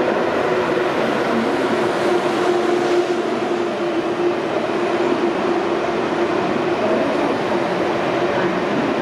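ICE high-speed train running into an underground station: a steady rolling rumble with a low whine, echoing off the concrete platform hall.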